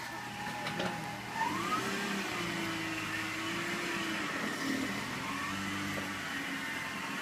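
2001 BMW 330Ci's straight-six running just after a cold start, with a steady jet-like whine over the engine note; the pitch rises briefly about a second and a half in. The whine comes only when the engine is cold and goes away once it warms up.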